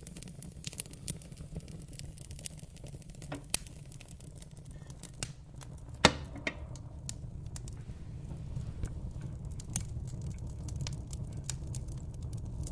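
Wood fire crackling in a fireplace: scattered sharp pops and ticks over a steady low rush of the flames, with one much louder pop about six seconds in.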